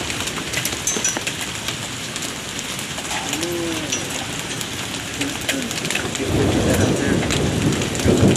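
Rain pouring down in a steady hiss, with many sharp ticks of drops hitting hard surfaces. About six seconds in, a low rumble builds and carries on, likely thunder.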